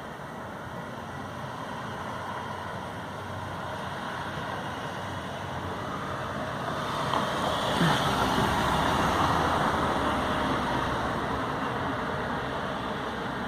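A motor vehicle passes by, its engine and tyre noise swelling to a peak about eight seconds in and then fading away.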